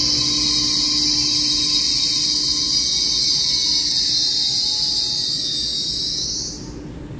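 TRA EMU3000 electric multiple unit running out along an underground station platform, with a loud steady high-pitched hiss from the moving train over a low hum. The hiss cuts off suddenly near the end.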